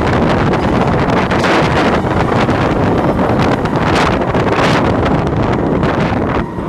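Loud wind buffeting the microphone as a roller coaster train runs at speed, mixed with the train's running noise on the track.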